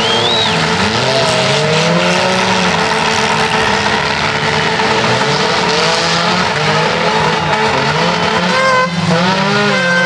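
Several demolition-derby cars' engines revving hard at once, their pitches rising and falling over and over, with a short high tire squeal right at the start.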